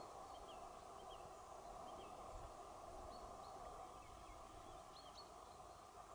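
Near silence: faint, short high bird chirps scattered through, over a steady low hiss.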